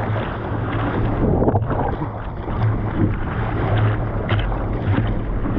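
Wind and sea water buffeting a camera microphone out in the surf: a steady, dense rushing noise with a strong low rumble and a few brief splashes.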